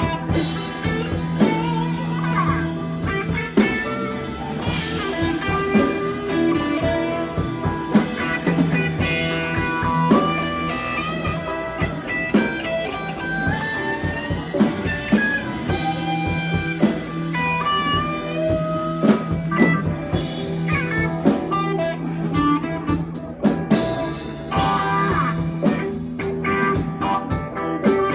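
Live blues-rock band playing an instrumental passage: electric guitar playing lead lines with bends over a steady drum kit beat and a held bass note.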